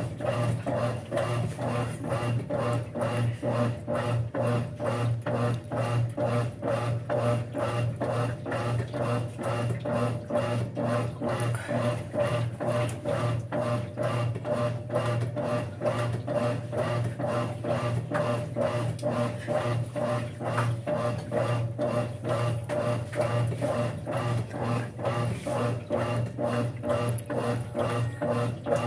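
Brastemp 5 kg top-loading washing machine agitating a load in water: a steady motor hum under an evenly repeating churning pulse.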